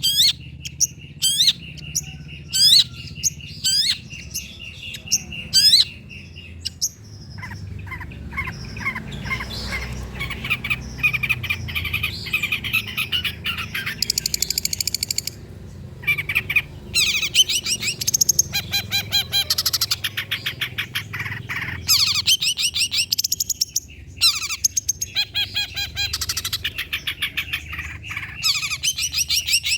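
Long-tailed shrike singing: a series of quick rising whistled notes over a steady thin high tone, then long passages of fast rattling, chattering trills in repeated bursts.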